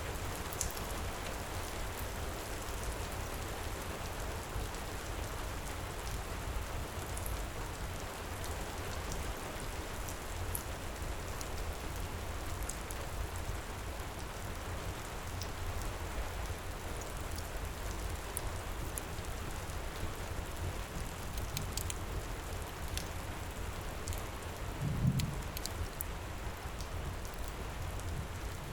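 Heavy rain falling steadily, with scattered sharp crackles from a wood fire. A brief low thud comes near the end.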